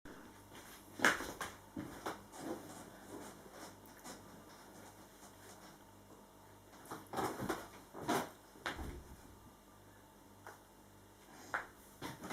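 Scattered short knocks and clicks, as of things being handled and set down, over a faint steady hum; the loudest comes about a second in, with a cluster a little past the middle.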